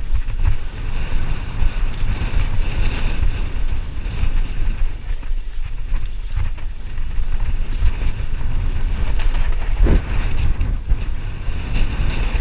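Wind buffeting the microphone, a steady low rumble with hiss, as from a camera carried on a moving mountain bike.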